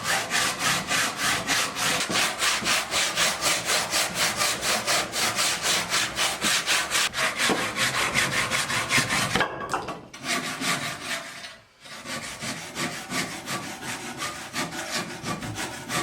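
Saw cutting lengthwise through an aerated concrete (gas-concrete) block in quick back-and-forth strokes, about four or five a second. After about nine seconds the strokes pause twice, then go on quieter and less even.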